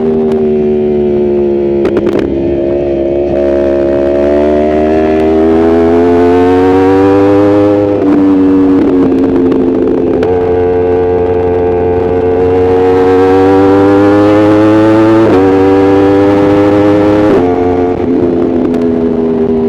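Yamaha R1 inline-four sport bike engine under riding load, heard from the rider's own bike with wind rush. The revs climb through a gear, drop at an upshift about 8 s in, climb again, then jump sharply twice near the end as the rider downshifts.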